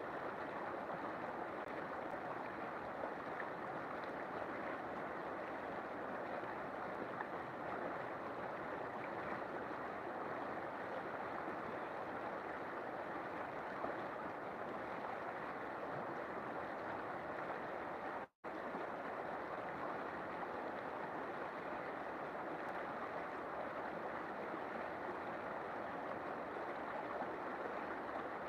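River water flowing in a steady, continuous rush, with an instant's dropout about two-thirds of the way through.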